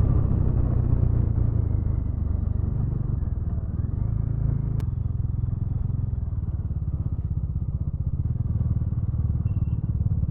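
Motorcycle engine running steadily while riding: a low, evenly pulsing note that holds its pitch without revving. A single sharp click sounds about five seconds in.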